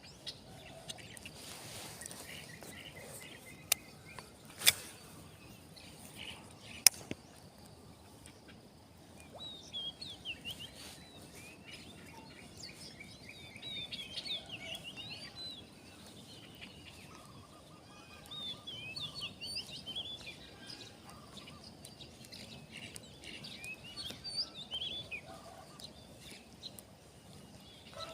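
Small birds chirping in quick runs of short calls, with three sharp clicks a few seconds in.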